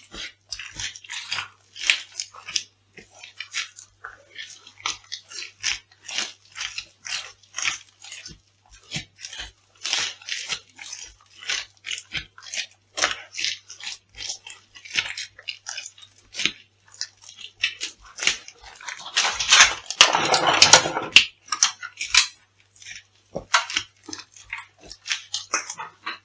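Crisp food being crushed underfoot, with irregular crackling and crunching throughout and a louder, denser crunch about twenty seconds in.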